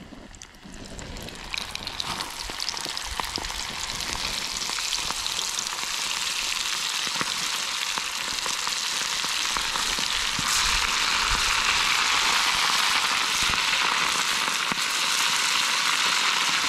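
Flour-coated calamari pieces frying in hot oil: a steady sizzle that builds over the first several seconds and then holds, with scattered small pops.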